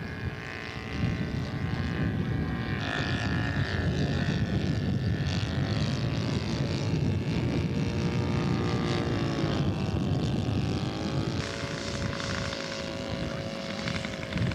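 Radio-controlled scale model airplane's propeller engine running as the model taxis out, its pitch drifting up and down with the throttle and dipping, then recovering, about ten seconds in.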